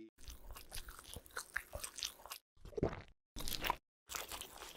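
Crunchy, close-up biting and chewing sounds in the mukbang ASMR style, in several short stretches with brief silent breaks between them.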